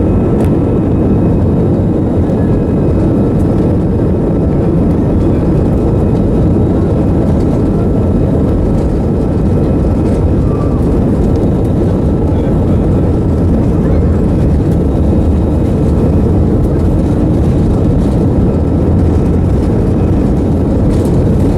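Steady engine and rushing-air noise inside the cabin of a passenger airliner, a constant low drone that holds level without change.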